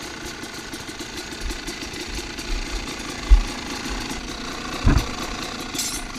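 Dirt bike engine idling with a fast, even, chattering beat, with a low thump about three seconds in and a knock near five seconds.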